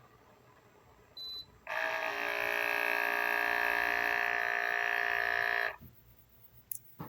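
A short electronic beep, then the Wacaco Pixapresso portable espresso machine's pump buzzing steadily for about four seconds before cutting off suddenly, followed by a sharp click near the end.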